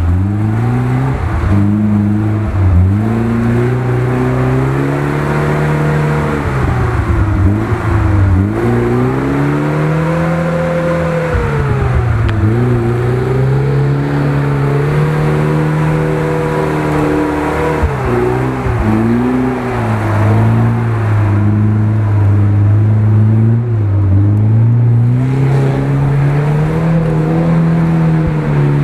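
Off-road 4x4 engine revving as the vehicle drives off-road, its pitch rising and falling again and again.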